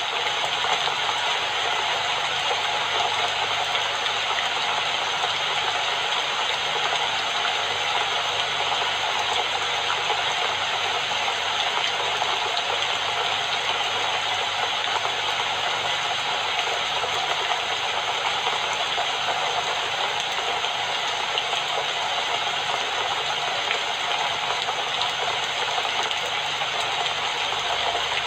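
Steady rain falling, an even noise that does not let up or change.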